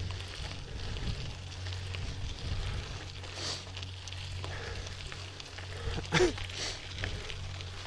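Mountain bike rolling along a forest trail: tyre crackle and crunch over the dirt with a steady low rumble from wind and the ride. About six seconds in there is one short, sharp sound that falls in pitch.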